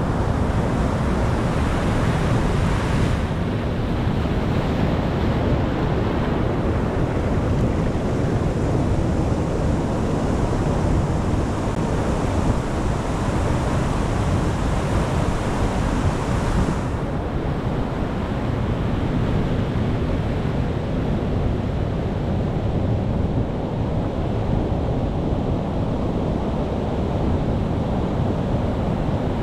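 Ocean surf: a continuous rush of waves with a deep low rumble. The brighter hiss of the surf fades about halfway through.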